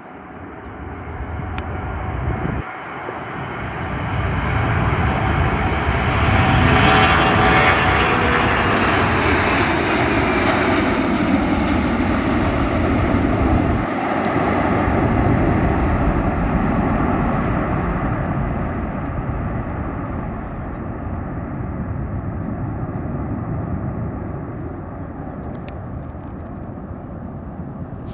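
Boeing C-17 Globemaster III's four turbofan engines at takeoff power: a jet roar that builds, peaks as the aircraft passes, then slowly fades, with a high whine that drops in pitch as it goes by.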